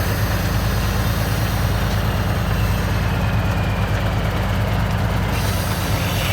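Heavy truck diesel engine running steadily at low revs.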